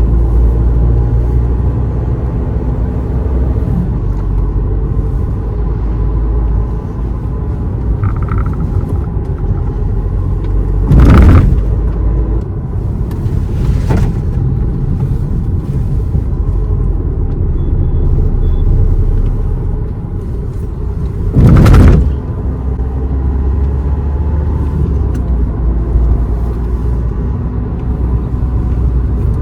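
A car driving, with steady engine and road rumble. There are two short, loud whooshes about eleven and twenty-one seconds in, and a fainter one between them.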